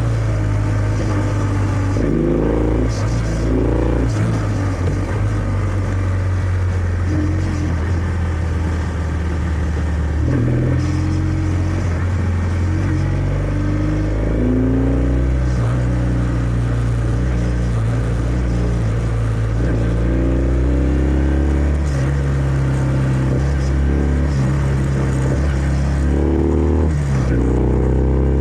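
Kawasaki W650's air-cooled parallel-twin engine heard through its stock exhaust while riding, climbing in pitch under throttle several times with steady stretches in between, as it pulls through the gears.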